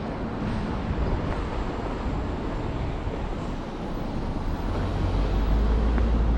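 Busy city street ambience with road traffic, an even wash of noise; a deep rumble grows louder in the second half.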